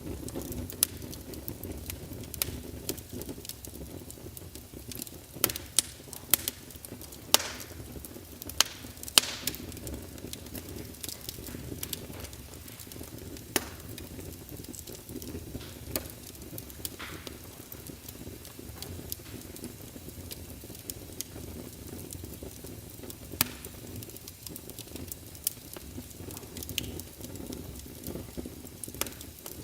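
Wood fire of burning logs crackling: a steady low rumble of flames with irregular sharp pops and snaps, busiest about a third of the way in.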